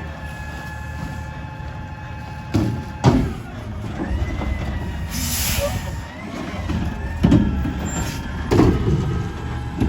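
Autocar ACX garbage truck running, a low diesel rumble with a high whine that bends in pitch about halfway through. Several loud knocks come over it, two close together about three seconds in and two more near the end, with a short air hiss about five seconds in.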